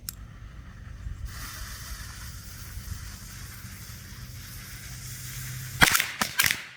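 A lit fuse on a string of Thunderbomb firecrackers hisses steadily for about four seconds. Near the end the string starts going off in rapid, irregular sharp bangs.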